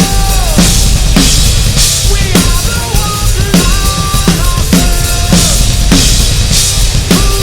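Rock/metal drum kit playing: bass drum, snare and cymbals driving a steady beat over the full band track, with a sustained melodic line that slides between held notes.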